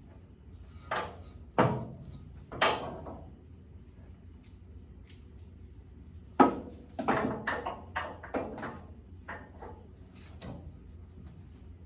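An irregular series of sharp knocks and clanks, each with a short ring after it. There are a few single ones and then a quicker cluster of them, over a low steady hum.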